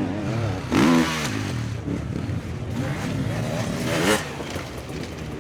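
Motocross motorcycle engines revving up and down, with a loud rising rev about a second in and another surge near four seconds.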